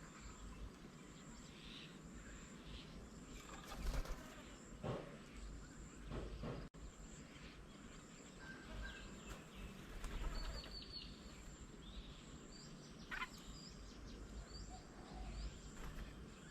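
Quiet outdoor garden ambience with scattered short bird chirps and calls, and a faint high tone that pulses about once a second. A few brief low rumbles stand out, the loudest about four and ten seconds in.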